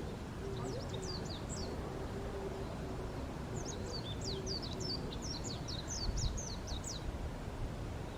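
A small bird singing two quick runs of short, falling high chirps, one early and a longer one from about three and a half seconds in, over a steady low rumble with a faint on-and-off hum.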